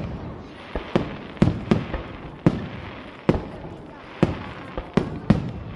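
Starmine fireworks barrage: aerial shells bursting in quick, irregular succession, about ten booms, each trailing off, with crackling between them.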